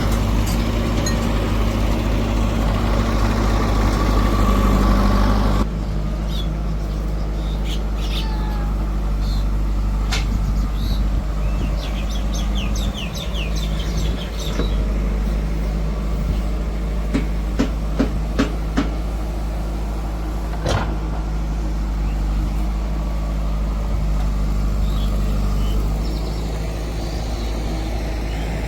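Heavy diesel engine of a backhoe loader or tractor running steadily, its note shifting and a little quieter about six seconds in, with a few short clanks later on.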